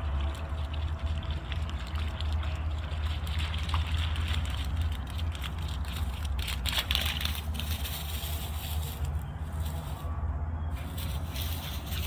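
Running water rushing steadily, such as a stream, over a constant low rumble.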